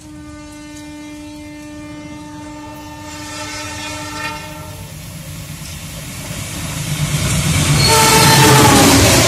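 A train horn sounds one long steady blast, then a CC 206 diesel-electric locomotive passes close on the next track, its engine and wheels building to a loud rush near the end, with a second horn note dropping in pitch as it goes by.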